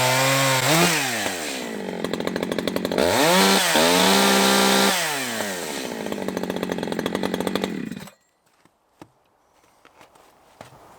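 Echo CS-620 two-stroke chainsaw with a modified, opened-up muffler, running at high revs and then dropping to a pulsing idle. It is revved up again for about two seconds, falls back to idle, and is shut off about eight seconds in, after which there are a few faint clicks.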